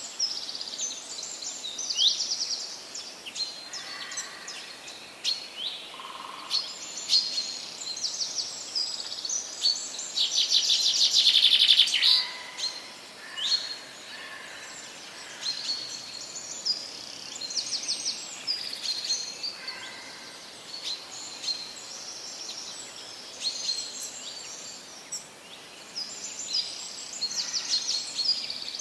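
Parrots calling: many short, high chirps and rapid trills, with a louder, harsher burst of calls about ten seconds in.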